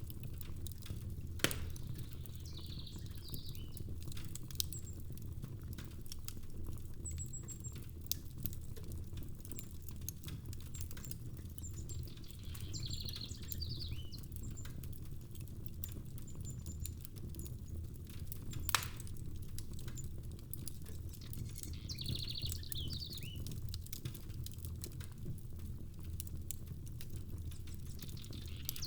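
Fireplace ambience: a wood fire crackling with a steady stream of small pops and two sharp louder pops, over a steady low rumble of rain. A short high chirping trill recurs about every nine to ten seconds.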